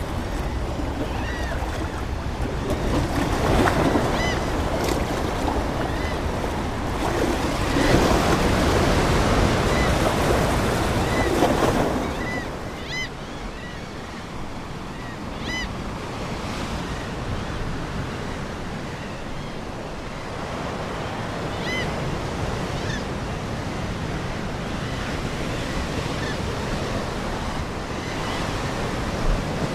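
Ocean surf washing ashore, with waves surging strongest in the first half before easing into a steadier wash. Short bird calls repeat over it again and again.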